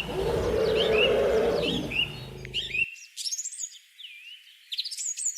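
Small birds chirping in short repeated calls. A lower continuous sound lies under them and cuts off abruptly about halfway through, leaving only the chirps.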